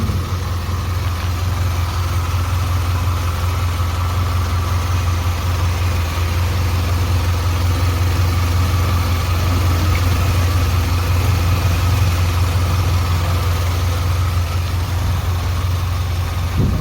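Suzuki Carry 1.0's four-cylinder petrol engine idling steadily and smoothly, an engine that has repeatedly seized and has a camshaft problem.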